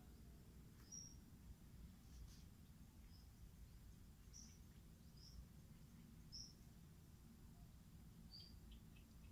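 Near silence: a faint low steady rumble with single short high bird chirps every second or two.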